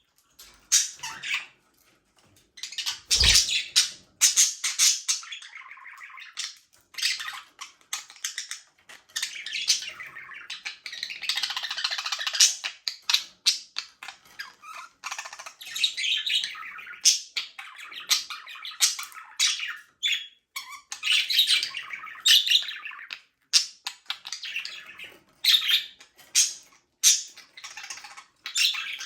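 A flock of budgerigars chirping and chattering together, several birds calling over one another, with sharper squawks among the warbling. A brief low thump about three seconds in.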